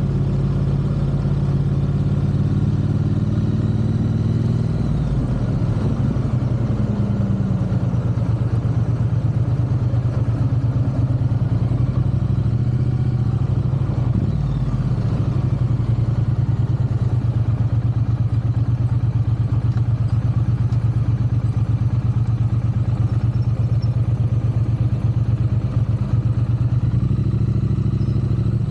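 A Triumph parallel-twin motorcycle engine and exhaust running under way with a steady low burble. The engine note drops and changes about five seconds in, dips briefly around fourteen seconds, then holds steady.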